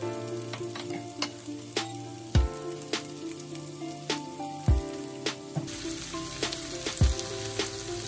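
Pork belly sizzling in its rendered fat in a wok, with a steady hiss and frequent sharp crackles of spattering fat. Soft background music sits underneath, with held notes and a deep thump about every two and a half seconds.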